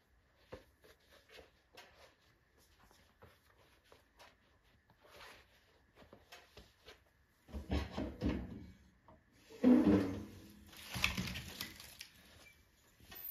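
Wood fire in a stove firebox: faint scattered crackles and clicks, then from about halfway through, two spells of louder wooden knocking and clatter, as of logs being handled or shifting in the firebox.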